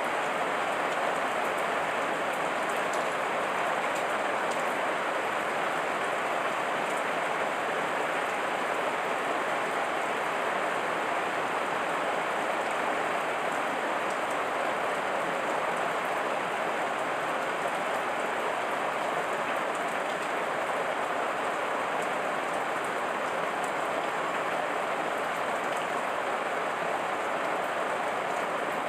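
Heavy rain falling steadily: a constant hiss of downpour with faint scattered drop ticks through it.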